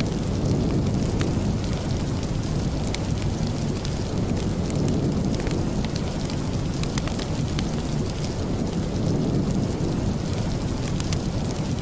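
Steady rain ambience with a deep, even low rumble and scattered faint ticks.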